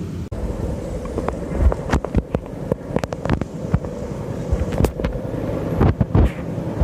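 Boeing CH-47 Chinook twin-rotor helicopter running with a steady drone, while wind buffets the microphone with irregular thumps.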